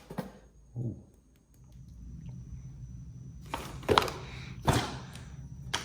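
Hands handling RC kit parts and their packaging: a dull knock about a second in, then a few short rustles and clatters in the second half.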